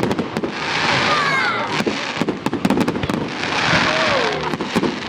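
Fireworks going off in quick succession: many sharp bangs, some in rapid clusters, between bursts of crackling.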